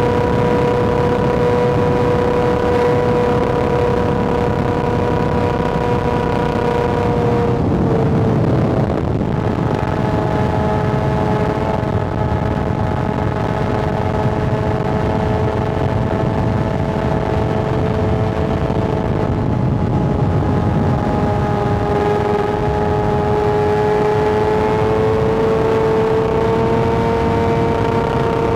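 Kawasaki ZX-6R inline-four engine running at steady high revs under way, its note held over a dense rush of noise. About eight seconds in the note breaks and settles lower, as in a shift up a gear, then climbs slowly near the end.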